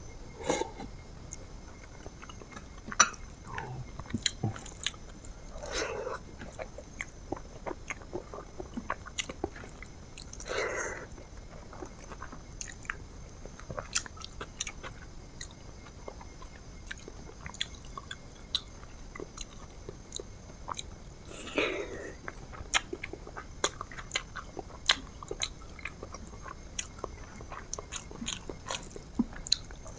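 A person chewing and biting food close to the microphone: many short mouth clicks throughout, with a few longer, louder mouth sounds about 6, 11 and 22 seconds in.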